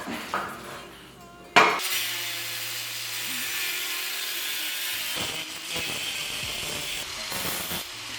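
A power tool cutting through the metal exhaust pipe of a Yamaha R3 motorcycle: a sharp knock about a second and a half in, then a steady, even cutting hiss that stops near the end.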